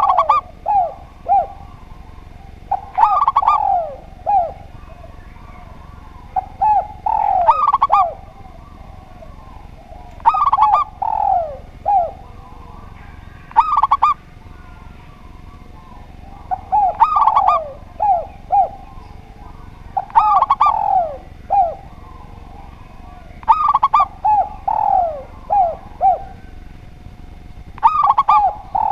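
Doves cooing: a short phrase of several falling coo notes, repeated about every three to four seconds, eight or nine times.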